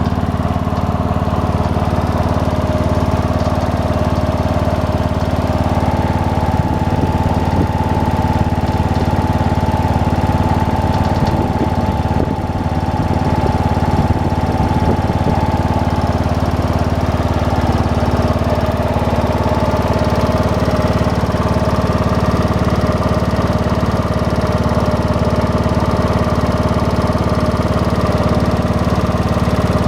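Robin EY44-2B general-purpose 10 hp gasoline engine running steadily after a start test, with a brief slight dip about twelve seconds in.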